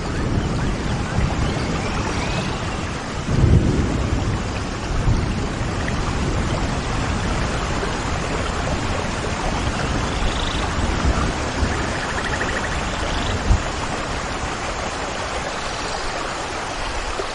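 Steady heavy rain during a thunderstorm, with a low rumble of thunder about three and a half seconds in.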